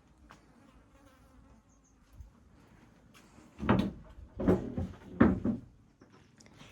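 Three heavy thumps, a little under a second apart, in the second half. Before them there is only a faint steady buzz.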